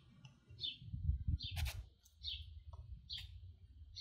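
A songbird chirping, one short high note about every three-quarters of a second, over a low rumble.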